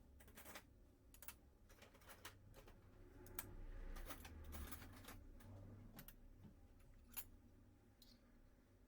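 Faint, irregular light clicks and taps, a few to several a second, with a soft low rumble of handling about the middle.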